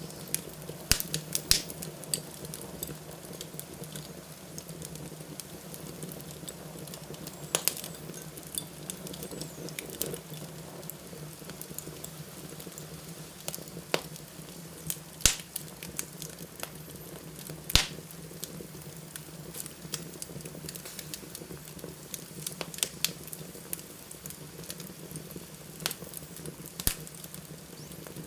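Wood fire burning in a fireplace: a steady low rushing sound with irregular sharp crackles and pops scattered throughout, two of them much louder than the rest a little past halfway through.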